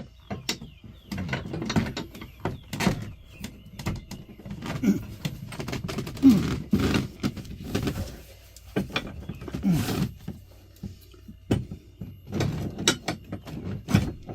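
Irregular knocks, clanks and scrapes of tools against metal bunk hardware as a gas-charged bunk shock is worked and pried off, with a few short falling creaks, the loudest about six seconds in.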